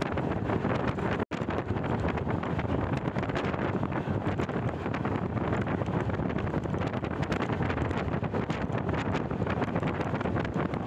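Wind rush buffeting the microphone at an open door of a moving passenger train, over the train's steady running noise on the rails. The sound drops out for an instant about a second in.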